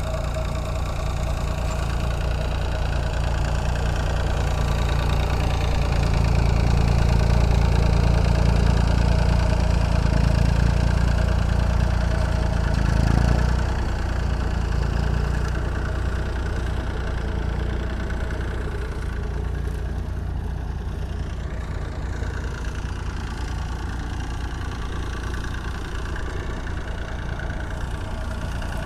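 Perkins diesel engine of a Ferguson tractor running steadily while cultivating. It grows louder for several seconds in the middle, then eases back.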